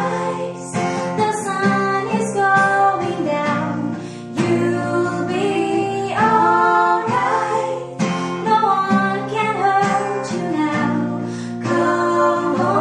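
Acoustic guitar strummed under a female voice singing a slow ballad, with layered backing vocals.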